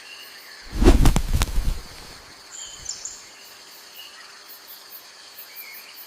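Forest ambience: birds chirping now and then over a high, rhythmic insect pulsing, about four pulses a second. A loud, low thump with a rumble lasting about a second comes just under a second in.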